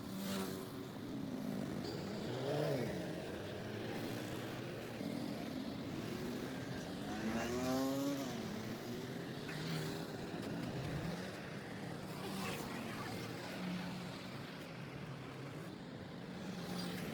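Road traffic: a steady noise of vehicles, with an engine rising in pitch as it speeds up about two seconds in and again about seven seconds in.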